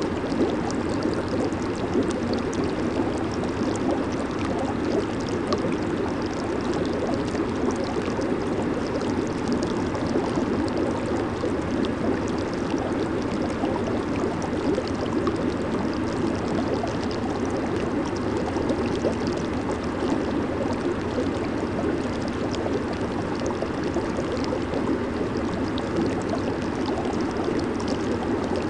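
Hot tub jets churning and bubbling the water: a steady, dense bubbling with no break.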